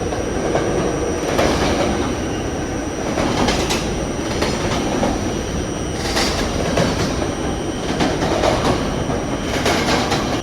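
R68A subway car running at speed between stations, heard from inside the car: a steady rumble of wheels on rail, with a few louder clatters over rail joints.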